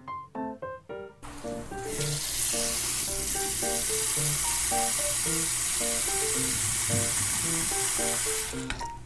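A steady, loud hiss comes in suddenly about a second in and lasts about seven seconds before stopping, over light plucked background music.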